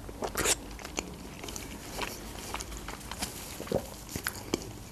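A person chewing a mouthful of dolma (meat-stuffed eggplant, pepper and tomato) close to a clip-on microphone, with scattered short mouth clicks.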